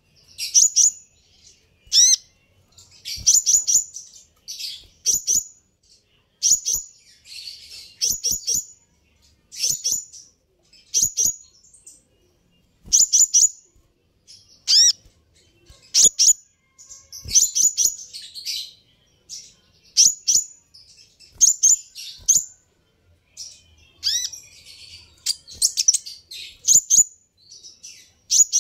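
A small bird's sharp, high chirps in quick clusters of two to four notes, repeated about once a second, some notes sweeping steeply down in pitch.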